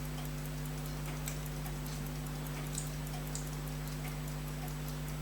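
A faint, fast, even ticking, about five ticks a second, like a running watch or clock, over a steady electrical hum, with a few small sharp clicks of watch parts and tools being handled.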